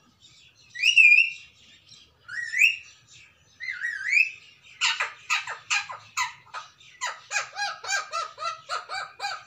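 Ringneck parakeet calling: three loud rising whistled calls in the first four seconds, then a fast run of harsh, squawky repeated notes, about three or four a second.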